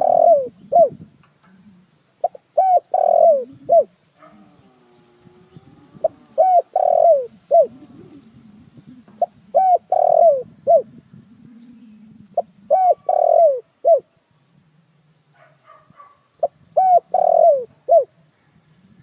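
Spotted dove cooing: a four-note phrase, the third note the longest and loudest, repeated about every three to four seconds, with fainter calls between phrases.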